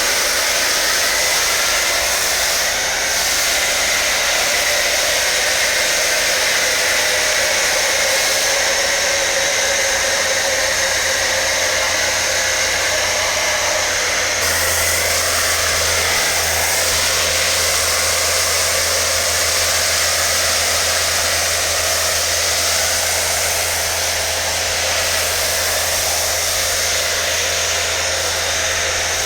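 Electric car-drying blower running steadily, a loud rushing of air with a motor whine; a lower hum joins about halfway through.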